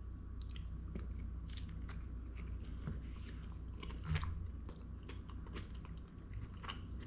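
A person chewing a mouthful of dipped taco close to the microphone, with scattered soft crunches and wet mouth clicks over a steady low hum.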